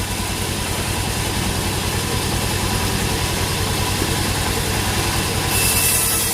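Sawmill engine running steadily with a fast, even low pulsing. Near the end a brief loud high hiss joins it.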